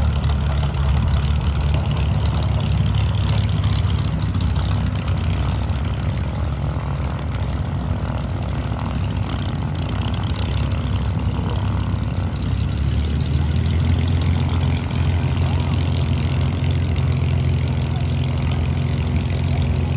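Rolls-Royce Merlin V12 piston engine of a Second World War propeller fighter running steadily at taxiing idle, a continuous low engine drone.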